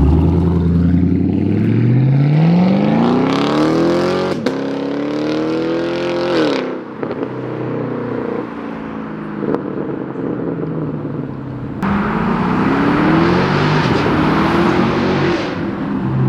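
Chevrolet Camaro SS V8, with a muffler delete and the secondary catalytic converters cut off, accelerating hard. Its pitch climbs for about six seconds, drops away sharply, runs lower for a while, then climbs again in a second pull near the end.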